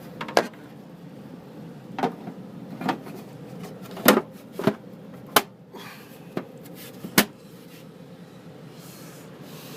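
Handling of tools and parts: about eight sharp clicks and knocks at uneven intervals, the last one about two-thirds of the way through, over a faint steady hum.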